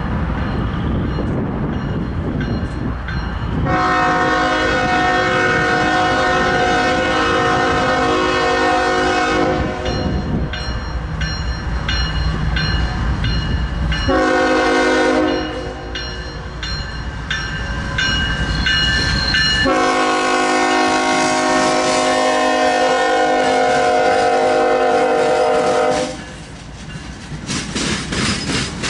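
CSX freight locomotive's multi-chime air horn blowing a long blast, a short blast and a second long blast. Between the blasts the train rumbles with some clickety-clack.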